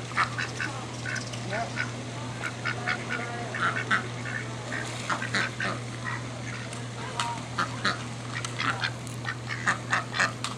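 Several ducks quacking, with many short calls overlapping irregularly throughout, over a steady low hum.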